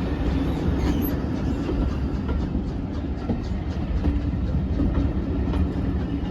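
A train moving on the line: a steady heavy rumble with wheels clicking over the rail joints.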